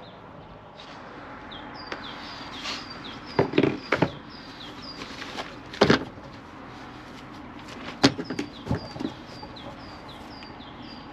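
A small bird repeating short, high, falling chirps in quick series, with sharp knocks and clanks, the loudest about six and eight seconds in.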